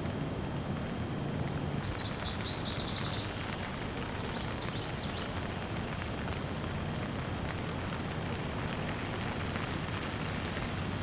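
Steady rain falling, with a songbird giving a quick trill of repeated high notes about two seconds in and a shorter, fainter one a couple of seconds later.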